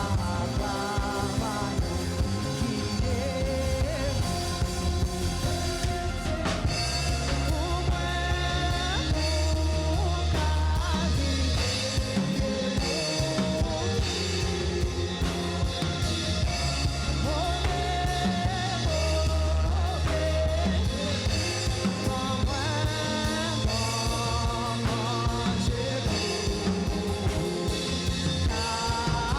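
Live worship band music with singing over a drum kit and a strong bass line.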